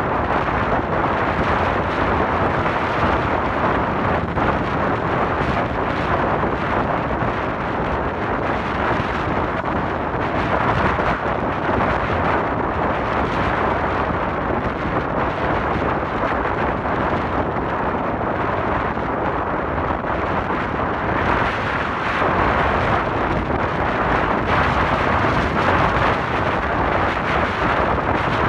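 Steady rush of wind and road noise on a moving motorcycle's microphone, with no clear engine note standing out.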